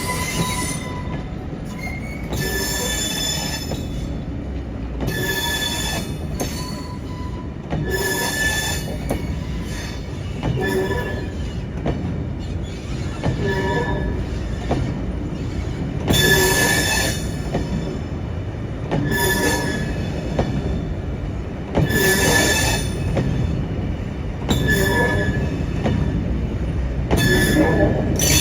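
Heritage railway train on the move: a steady rumble of wheels on track, with a short wheel squeal coming back about every two and a half seconds.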